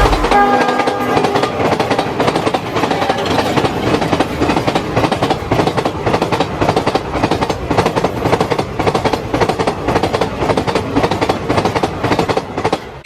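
A train passing close at speed, its wheels clattering rapidly and rhythmically over the rail joints. A horn trails off in the first second.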